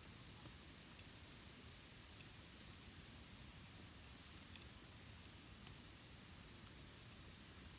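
Wood campfire crackling faintly, with scattered sharp pops at irregular intervals.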